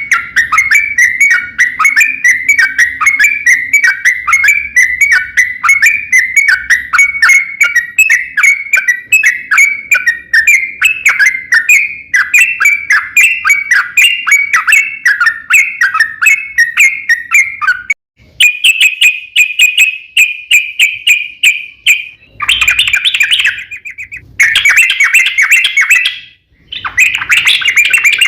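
Sooty-headed bulbul singing a long rapid song: a run of short chirping notes, about four a second, for some eighteen seconds. After a brief pause it goes on in faster, slightly higher runs, broken into short bursts near the end.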